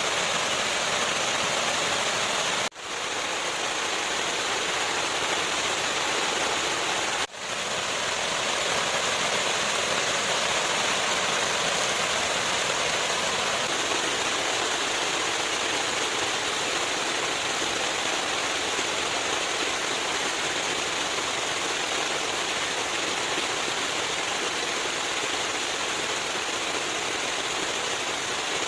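Steady rushing of water with an even hiss. It breaks off twice in brief dropouts, once about three seconds in and again about seven seconds in.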